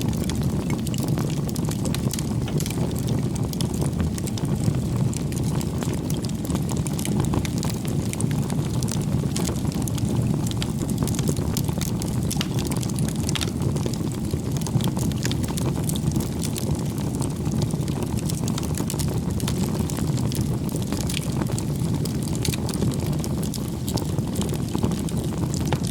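Firewood bonfire burning: a steady low rush of flames with many small, irregular crackles and pops from the burning wood.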